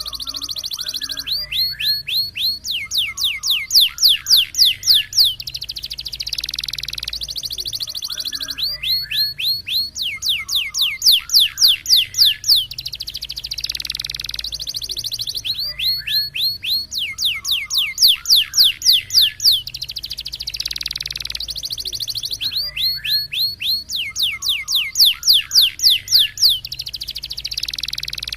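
Canary singing a roller-type phrase four times over: a rapid rolling trill, then a run of loud, fast, downward-swept 'shot' notes, with the phrase coming round about every seven seconds.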